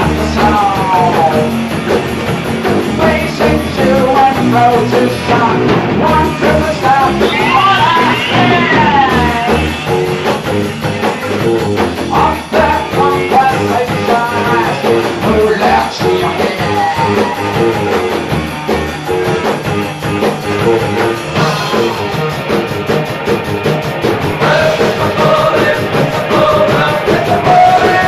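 Rock band playing loudly, electric guitar over bass and drums, with sliding pitch runs about eight seconds in.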